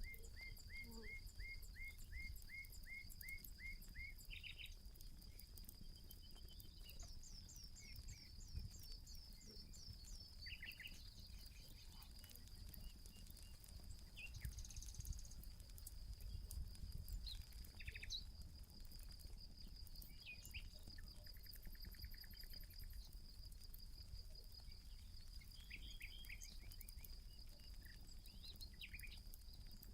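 Birds calling over a steady high drone of insects: an even series of about ten short notes in the first few seconds, then a run of high falling notes, then scattered chirps. A campfire crackles faintly underneath.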